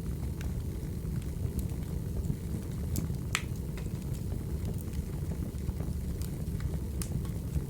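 Firewood burning: a steady low rumble with scattered crackles and pops, the sharpest pop a little over three seconds in.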